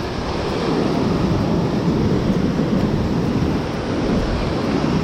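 Surf washing over a reef, with wind buffeting the microphone: a steady rushing noise with no breaks.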